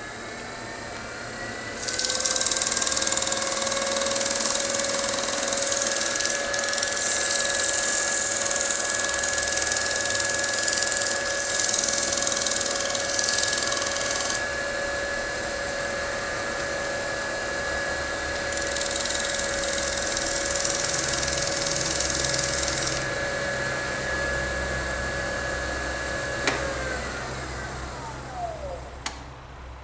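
Wood lathe motor running with a steady hum, the bowl spinning, while sandpaper hisses against the turning bowl in two long passes, sanding off a gummed-up spot in the shellac finish. Near the end the lathe winds down with a falling whine and stops.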